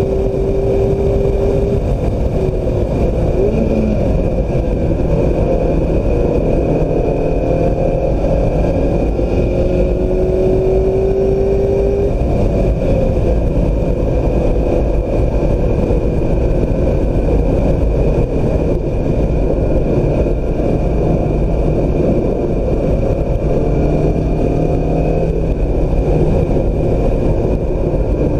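A 2016 Mazda MX-5 Miata's engine driven hard on a racetrack, its pitch climbing and dropping repeatedly, under a heavy, steady rush of wind and road noise.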